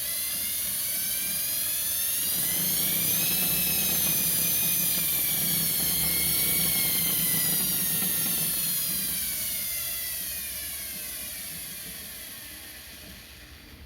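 Washing machine motor on an SCR speed controller, whining as it spins. Its pitch rises as it speeds up over the first few seconds, holds, then falls as it slows and winds down near the end.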